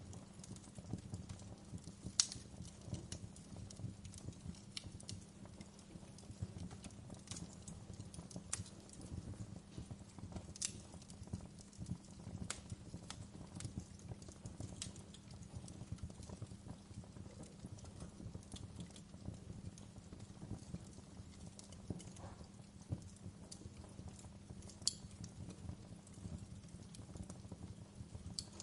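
Wood fire crackling: a steady low rumble of burning with frequent irregular sharp pops and snaps, two louder pops about two seconds in and near the end.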